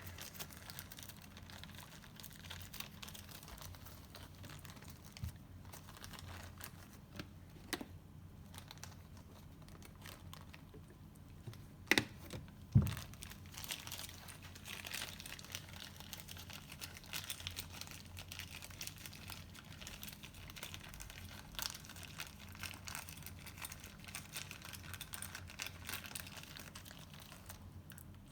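Hands fitting connecting-rod bearing shells and caps: light crinkling and small clicks, with two sharp knocks about twelve seconds in.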